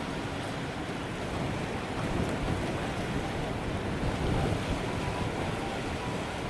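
Strong wind buffeting the microphone over the wash of waves, with a low steady rumble that swells a little a couple of times.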